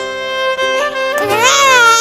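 Background music with held string notes. About a second in, a loud, high, wavering crying voice starts over it.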